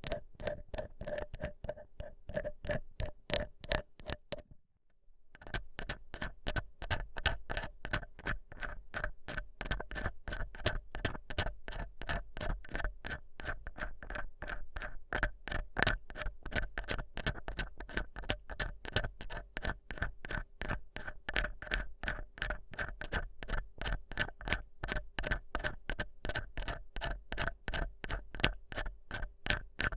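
ASMR ear-cleaning sounds: an ear pick scratching and rubbing against a microphone's ear, in quick repeated strokes about four a second. The strokes stop briefly about five seconds in, then go on with a brighter, scratchier tone.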